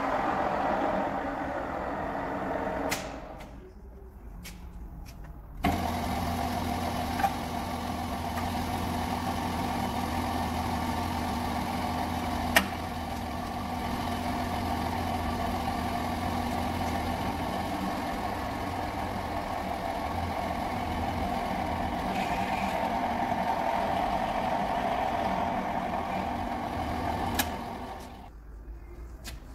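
Drill press running, a steady motor-and-gearbox hum with a few brief clicks. The hum drops away suddenly for a couple of seconds a few seconds in and again near the end.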